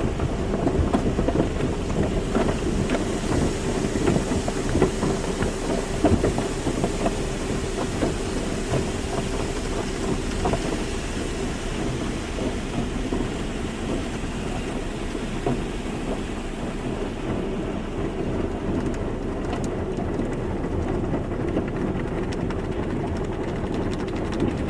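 Automatic car wash: water jets spraying and drumming on a car's body, a dense steady rush with many small irregular patters, and a faint steady hum under it for a while.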